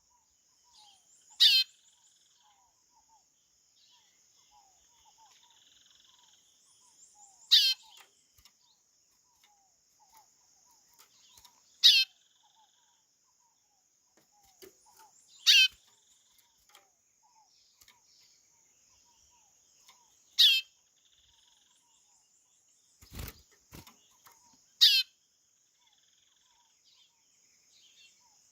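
White-bellied seedeater (chorão) giving a short whistled call that slides steeply downward, repeated six times, one every four to five seconds. A dull knock sounds shortly before the last call, over a faint steady high buzz.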